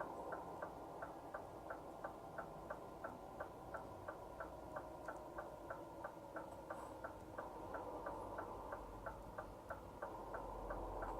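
Truck turn-signal indicator ticking steadily, about three clicks a second, over the steady drone of the Scania R450's straight-six diesel heard inside the cab.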